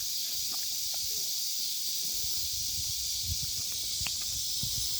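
Steady high-pitched outdoor hiss, like an insect chorus, with scattered low rumbles on the microphone and a single light click about four seconds in.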